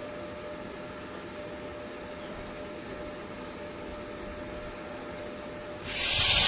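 Steady low machine hum with a faint steady tone. About six seconds in, a loud crackling hiss starts abruptly: a welding arc being struck.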